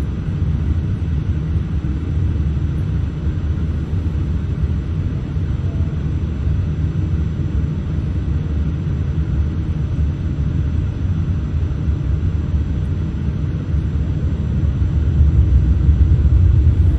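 Steady low rumble inside the cabin of a Boeing 787-8 taxiing: engines at taxi power and the rolling undercarriage, growing a little louder near the end.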